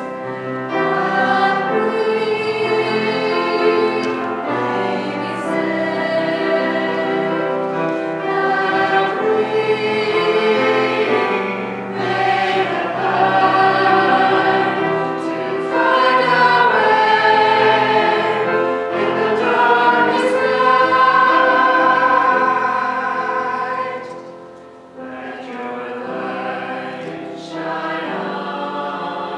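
A choir singing a hymn, several voices together in held, changing chords, with a short break between phrases near the end.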